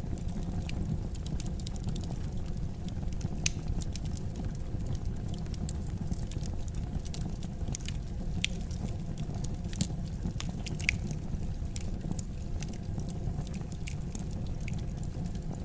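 Fire burning in a fireplace, crackling with irregular sharp pops and snaps over a steady low rumble of the flames, a few pops standing out louder than the rest.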